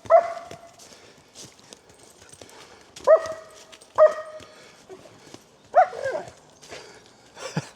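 German Shepherd barking: about five single barks spaced a second or more apart, the last two close together.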